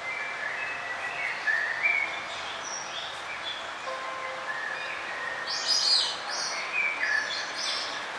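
Songbirds chirping and trilling, several short calls overlapping, over a steady background hiss of outdoor ambience; a loud run of high notes comes about six seconds in.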